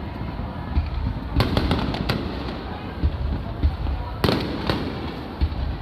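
Aerial fireworks shells bursting: a series of sharp bangs, loudest about a second and a half in, again at two seconds, and twice more after four seconds, over a constant low rumble.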